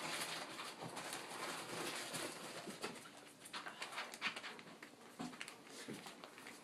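Four-week-old English cream golden retriever puppies playing: small coo-like grunts and whimpers over scuffling and scattered light clicks.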